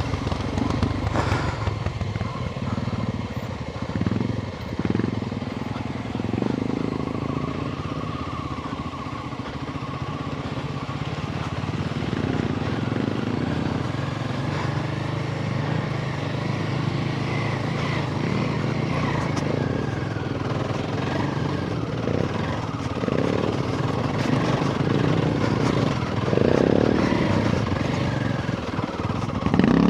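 Royal Enfield Himalayan 450's single-cylinder engine running at low to moderate revs, its note rising and falling with the throttle as the bike is ridden slowly over muddy off-road ground.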